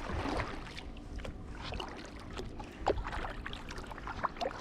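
Kayak being paddled in shallow water: irregular small splashes, drips and light knocks from the paddle and hull over a steady low rumble.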